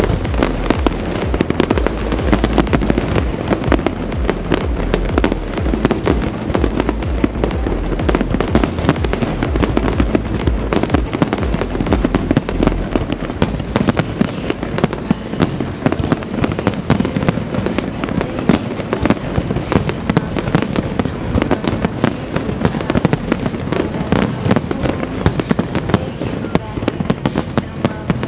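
A fireworks display going off: a dense, continuous run of sharp cracks and bangs over a low rumble, with music playing underneath.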